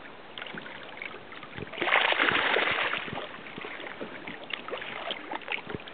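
Water splashing and sloshing against the side of a small boat, with a loud burst of splashing about two seconds in, then scattered knocks and drips.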